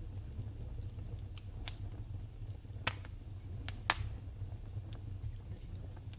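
Wood fire burning in a fireplace: irregular sharp crackles and pops over a low, steady rumble.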